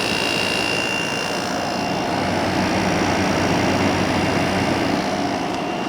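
2017 Frigidaire 8,000 BTU window air conditioner running steadily in cooling mode, its fan blowing and compressor running, with a thin high whine that drops away about a second in.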